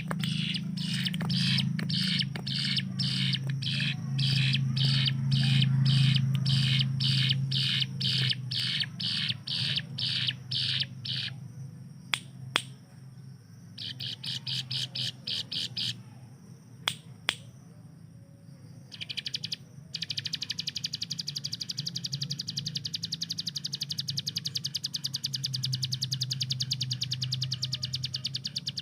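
Ciblek gunung, a prinia, singing its rapid-fire 'tembakan' burst song: a fast series of sharp high notes, about three a second, then after a short pause a continuous very fast rattling trill from about two-thirds of the way in. A steady low hum runs underneath.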